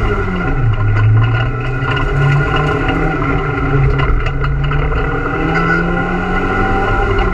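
Renault Super 5 GT Turbo's turbocharged four-cylinder engine driven hard, heard from inside the cabin. The engine note rises and falls repeatedly with gear changes and lifts, dropping sharply in pitch right at the start.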